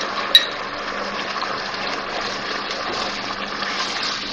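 Mutton, brown onion and masala sizzling steadily in oil in a pan while being stirred with a spatula, with one sharp clink a third of a second in.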